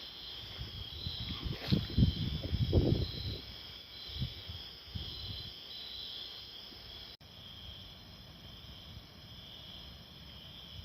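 Insects chirping in a steady, high, pulsing chorus, with a few low thumps and rumbles about two to three seconds in.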